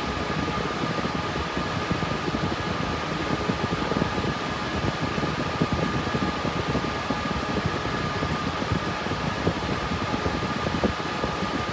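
Cooling fans of an RTX 3060 Ti GPU mining rig running steadily under mining load: an even rushing whoosh with a faint steady whine on top.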